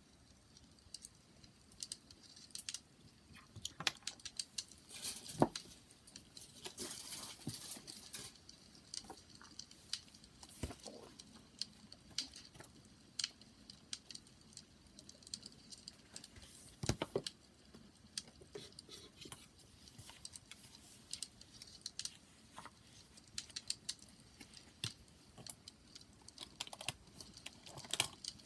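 Wood fire crackling: irregular pops and snaps over a soft hiss, with two louder pops about five and seventeen seconds in.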